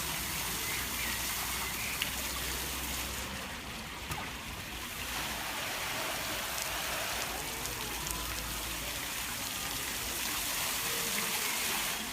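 Water fountain jets running and splashing steadily.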